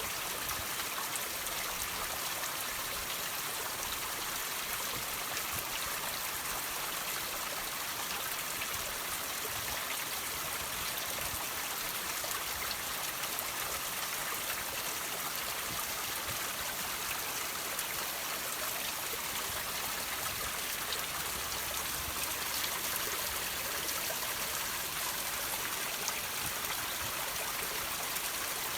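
Water dripping and trickling off rocks: a steady wash of running water sprinkled with many small drips.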